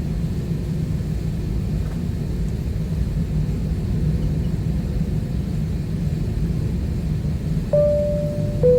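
Steady low cabin rumble of an Airbus A320 rolling on the ground after landing. Near the end comes a two-note tone, the higher note first, then a lower one that holds on.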